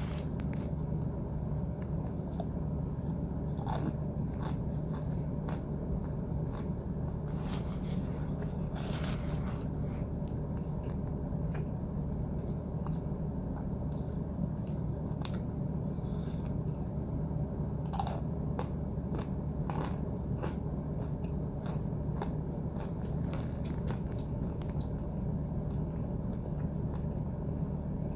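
Close-up mouth sounds of a person biting and chewing clumps of a chalky white powder, small crunches and crackles scattered throughout, with a plastic spoon scraping in a plastic tub. A steady low hum runs underneath.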